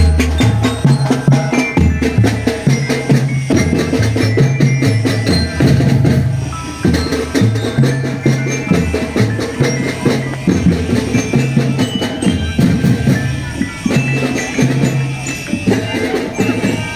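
Indonesian drumband playing: rapid marching-drum strokes under a pitched melody and a stepping bass line, continuous throughout.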